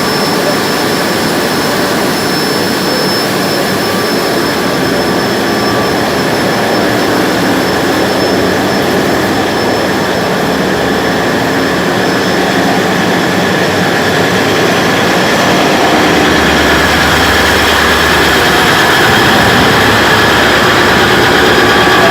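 Ship's marine diesel engines running steadily, heard close inside the engine room: a loud, dense mechanical din with a faint high whine over it. It gets slightly louder and deeper about two-thirds of the way through.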